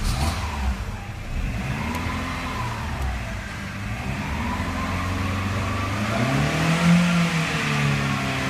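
Volkswagen Lupo 1.4 petrol four-cylinder engine running and being revved, its pitch rising and falling, highest about seven seconds in.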